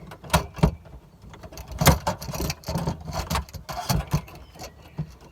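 Irregular clicks, knocks and rattles of objects being handled and put back in place.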